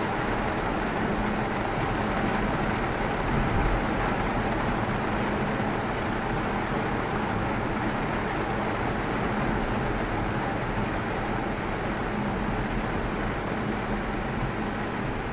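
Xpeng electric car driving on a wet road: steady tyre and road noise with a faint low hum, and no engine sound.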